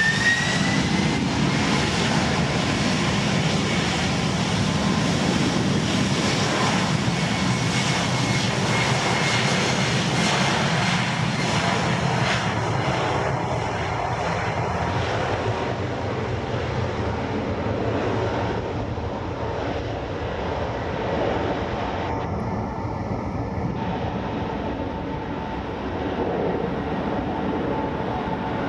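Airliner's engines running loud and steady, a rushing noise with a thin whine in it. Near the start the whine briefly rises in pitch, and the sound slowly grows duller and a little quieter as the aircraft moves off.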